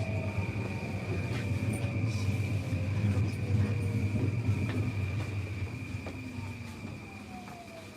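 Electric commuter train running, heard from on board: a steady low rumble of wheels on rail with a thin steady high whine, and a few motor tones gliding slowly down in pitch. The sound eases off over the last couple of seconds.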